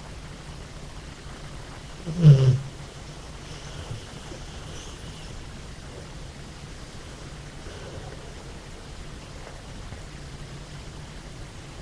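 American Staffordshire terrier snoring in deep sleep: one loud, low snore about two seconds in, with a quieter low hum of breathing between snores.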